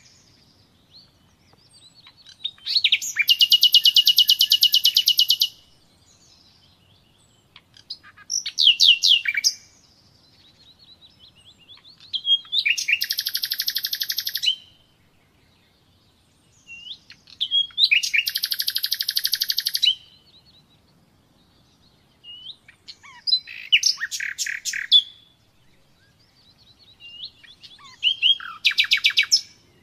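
Common nightingale singing: about six phrases of fast repeated notes and trills, each a couple of seconds long, separated by pauses of a few seconds.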